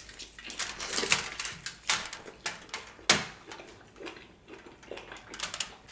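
Close-miked chewing of a bite of bone-in ribeye steak: wet mouth clicks and smacks coming at irregular intervals.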